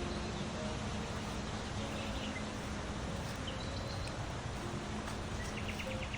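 Songbirds calling outdoors: a few short chirps, then near the end a rapid trill of evenly repeated high notes, over a steady background rush of outdoor noise.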